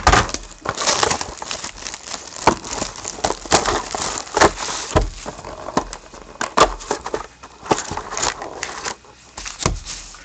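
Irregular crinkling and crackling of plastic wrapping and cardboard as a sealed box of hockey cards is unwrapped and opened to get at the packs.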